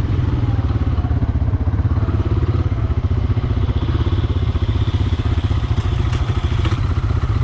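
Vehicle engine running steadily at low revs, a rapid even firing pulse throughout.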